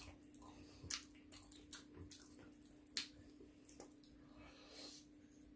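Faint mouth sounds of two people eating fried chicken: a scatter of short wet clicks and smacks from chewing and lips, over a low steady hum.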